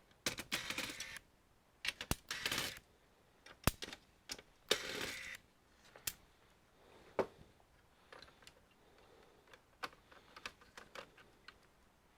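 Irregular clicks and taps with a few short scraping rustles, from plastic and metal parts of an all-in-one PC being handled and worked apart.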